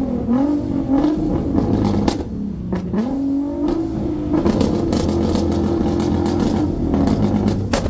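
Sports car engine revved hard: a few quick blips, then a rev held high for about four seconds, with sharp exhaust cracks and pops throughout.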